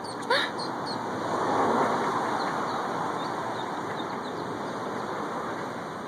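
A passing vehicle: a broad rush of traffic noise that swells to a peak about two seconds in and then eases off slowly. Faint, high duckling peeps sound over it now and then.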